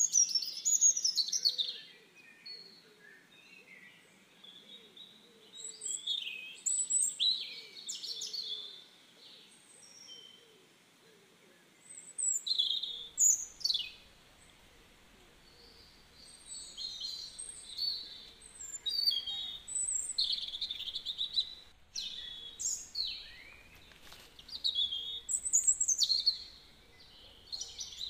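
Birds chirping and calling in irregular bursts of quick, high, falling notes, with quieter gaps between.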